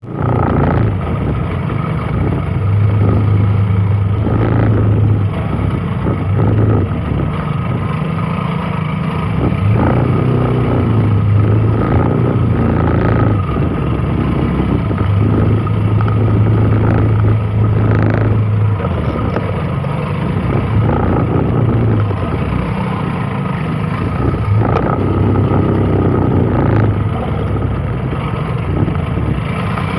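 Vehicle engine running through its exhaust, a steady low hum that swells and eases every second or two, with scattered sharp knocks over it.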